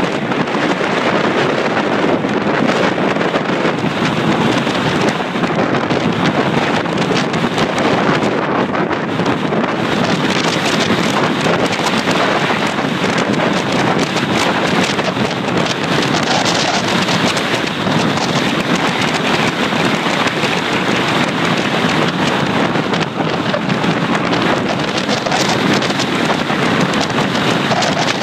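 Strong wind buffeting the microphone: a dense, steady rush.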